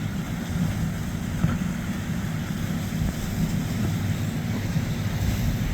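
Motorboat engine running with a steady low rumble, with wind on the microphone.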